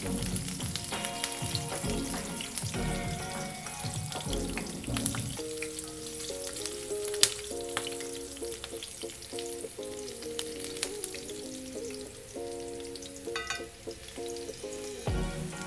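Whole spices and split green chilies sizzling in hot mustard oil in a pan, with occasional sharp clicks. A soft background music melody plays along from about a second in.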